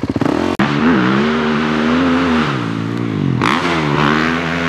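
Dirt bike engine revving under load, its pitch wavering, dipping briefly about three seconds in and climbing again.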